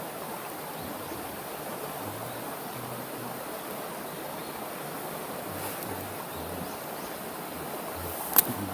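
Steady rushing of flowing water, like a stream, with one sharp click near the end.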